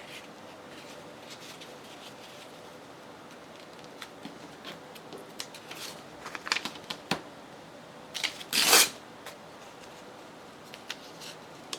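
Paper scraps being handled on a craft desk: scattered light rustles and taps after a few quiet seconds, with one louder short rasp of paper near the end.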